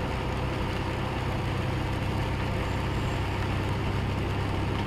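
Steady low rumble of a car's engine and road noise while driving, with no impacts or sudden sounds.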